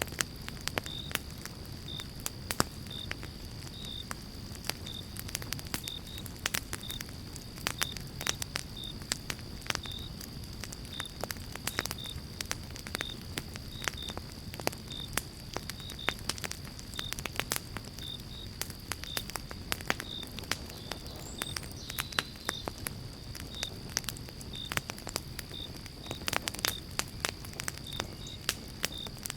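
Campfire of pine logs crackling and popping in quick irregular snaps over a low steady rumble of the flames. A faint high chirp repeats about twice a second throughout, with a thin steady whine above it.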